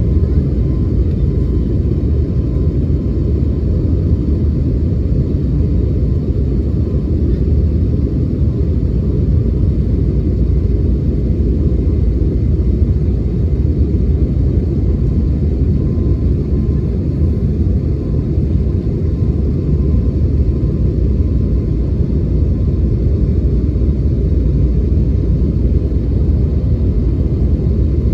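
Steady low cabin roar of an Airbus A321neo climbing, engine and airflow noise heard from inside the cabin, with a faint steady tone above it.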